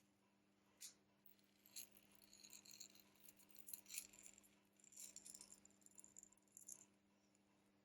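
Faint small clicks, ticks and scrapes of hand tools working on the parts of an LG G6 smartphone being taken apart, roughly once a second, over a low steady hum.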